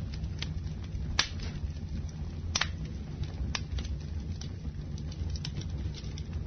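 Campfire burning: a steady low rumble with several sharp crackles and pops at irregular intervals, the loudest a little over a second in.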